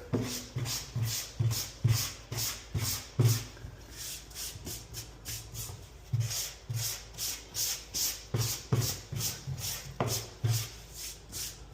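Sandpaper rubbed back and forth by hand over dried paint on a porcelain tub repair, in quick even strokes about two to three a second, scuffing the first coat so the next coat will grip.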